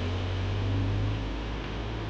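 Motorhome driving along a road: a steady low engine drone under an even hiss of road and tyre noise.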